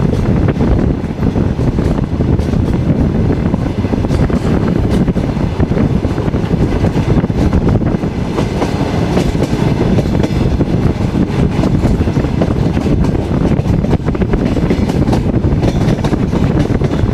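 Passenger train carriage running along the line, heard from its window: a steady rumble of wheels on the rails with a jumble of small clicks and knocks.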